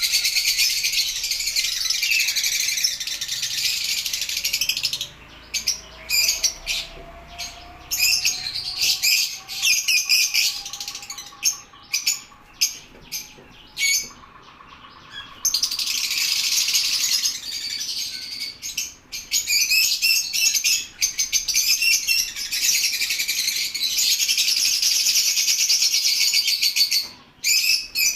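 A flock of lovebirds chattering and chirping in a dense, high-pitched din, thinning out briefly twice before starting up full again.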